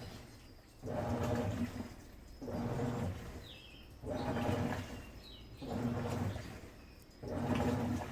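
Midea Wave-Agitator top-load washing machine agitating in the wash phase: the motor drives the agitator in regular strokes of under a second, about every second and a half, each one a motor hum with water churning.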